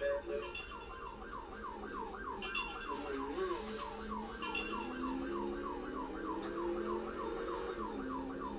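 Police car siren in fast yelp mode, rising and falling about three to four times a second without a break.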